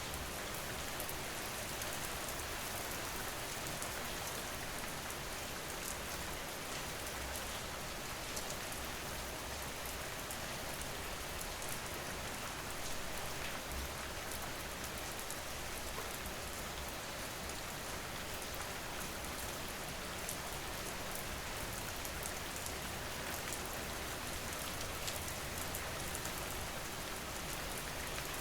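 Steady rain falling on surfaces, an even hiss dotted with individual drop ticks, over a faint low rumble.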